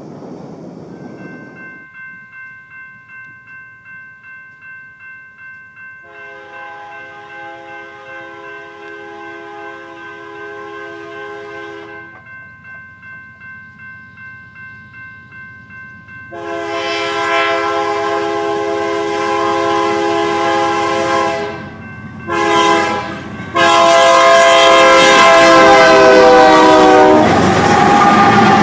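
Locomotive horn sounding the grade-crossing signal, long, long, short, long, over a grade-crossing bell ringing. The horn grows louder with each blast, and near the end its pitch drops as the locomotive passes and the rumble of the train takes over.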